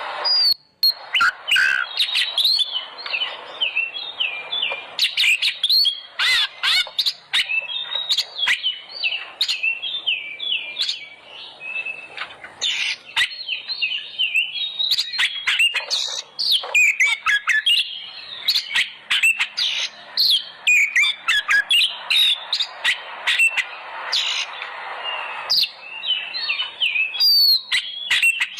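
Oriental magpie-robin (kacer) in full agitated song: a fast, unbroken stream of varied chirps, whistled sweeps, trills and sharp clicking notes. This is a lure song, meant to provoke other magpie-robins into singing loudly.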